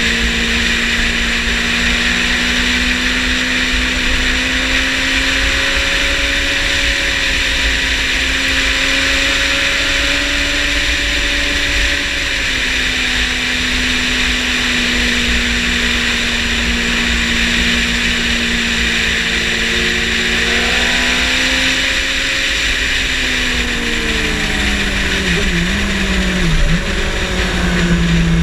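Motorcycle engine heard on board at speed, with steady wind rush. The engine note holds fairly steady for most of the stretch, then falls in several steps over the last several seconds.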